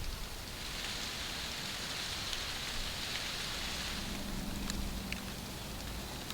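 Small stream babbling steadily, a continuous watery hiss with a few faint ticks. A faint low hum joins it for a couple of seconds past the middle.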